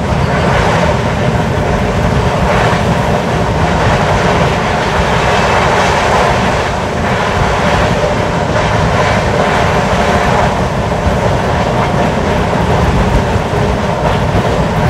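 LHB passenger coaches running at speed: loud, steady noise of the wheels rolling on the rails.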